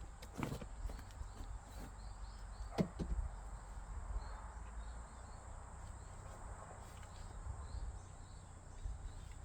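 An axe striking a log being split for firewood: a light knock about half a second in, then one sharp, loud strike a little under three seconds in.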